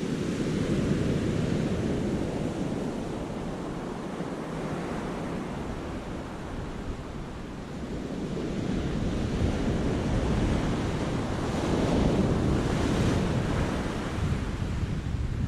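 Sea waves breaking and washing in over rocks in a cove, swelling twice, about ten seconds apart. Wind noise buffets the microphone in the second half.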